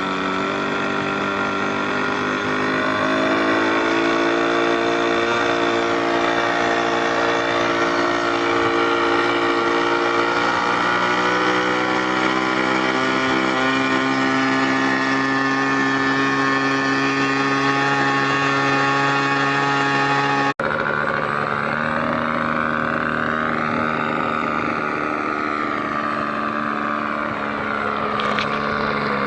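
Small gasoline two-stroke engine of a single-propeller radio-controlled model airplane running in flight, a steady buzz whose pitch slowly rises and falls as the plane passes and the throttle changes. The sound cuts out for an instant about two-thirds through.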